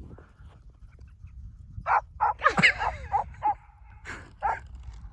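A dog barking and yipping in play: a quick run of short barks starting about two seconds in, the loudest a tangled cluster a little after.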